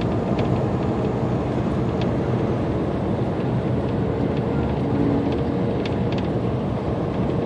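Semi truck's engine and road noise heard steadily from inside the cab while driving.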